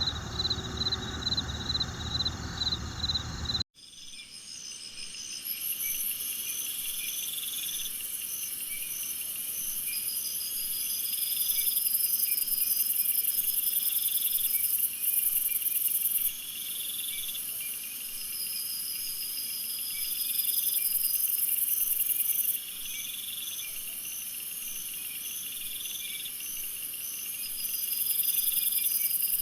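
Several overlapping high-pitched animal trills and chirps, each repeating in a steady pulsing rhythm, starting after an abrupt cut about four seconds in.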